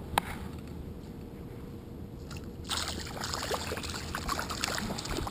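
A sharp click just after the start. Then, from about three seconds in, splashing and sloshing water with a crackle of small clicks as a hooked pickerel is pulled up through a hole in the ice.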